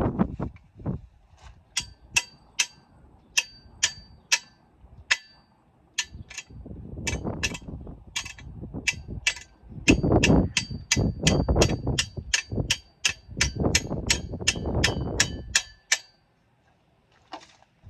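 Repeated sharp metallic taps with a short ringing tone, about two to four a second, from a tool striking metal bike parts. Low rumbling handling noise lies under them, and the tapping stops near the end.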